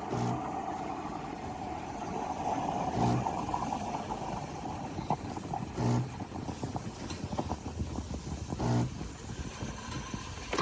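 Espresso machine running with a steady mechanical hum and hiss, broken by a short low buzz about every three seconds.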